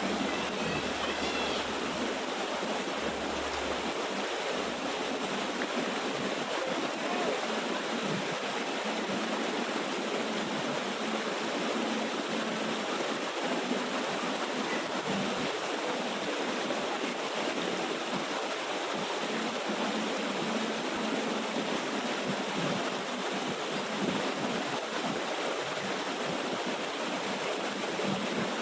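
Steady rush of water from a small waterfall cascading over rocks.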